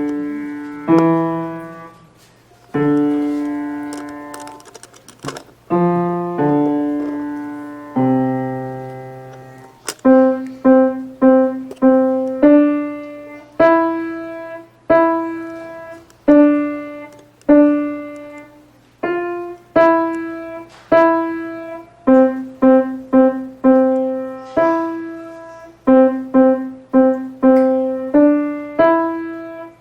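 A child playing a simple tune on the piano, one note at a time, each note struck and fading: slow, spaced notes for the first ten seconds, then a steadier run of short repeated notes.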